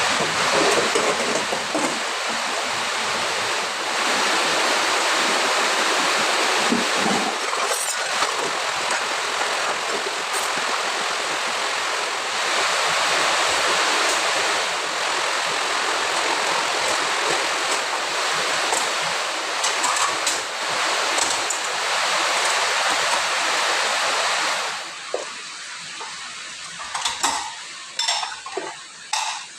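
Kitchen tap running steadily as dishes and glasses are washed, with light clinks of plates and glassware. The water shuts off about 25 seconds in, leaving scattered clinks and knocks of dishes being handled.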